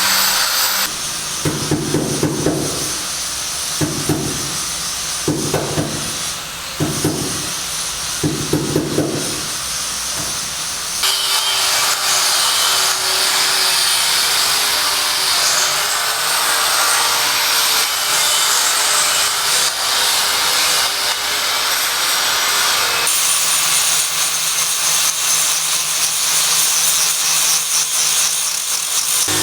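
Building-site work noise in several spliced clips, with the broad character of hand-tool work on timber. The first part holds a run of rhythmic strokes a little over a second apart, followed by steadier work noise.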